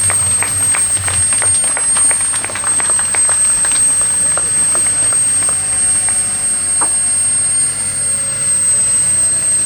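Small gas turbine of a scale RC model helicopter running with a steady high-pitched whine. A scatter of sharp clicks comes in the first six seconds.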